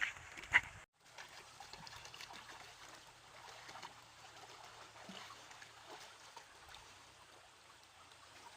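Water trickling and splashing, with two sharp splashes or knocks within the first second, then a faint steady trickle with small scattered ticks.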